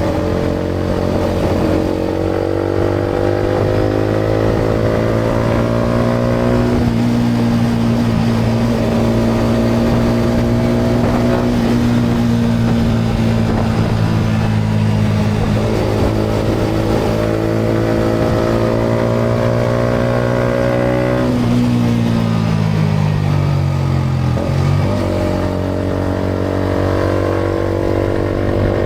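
Yamaha MT-125's single-cylinder 125 cc four-stroke engine through a GPR aftermarket exhaust, accelerating up through the gears. Its pitch climbs and drops back at three upshifts, then falls away as the bike slows, and climbs again near the end as it pulls away once more.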